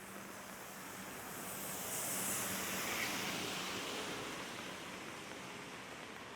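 A vehicle's tyres hissing on a wet road as it passes, the hiss swelling to a peak a couple of seconds in and then fading, with a faint low engine hum under it; steady rain around it.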